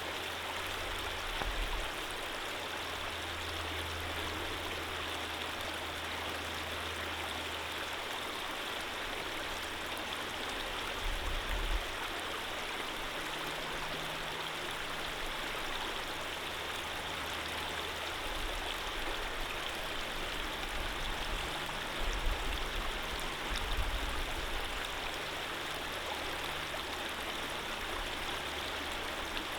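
Running water of a stream flowing steadily, with a low rumble that comes and goes beneath it.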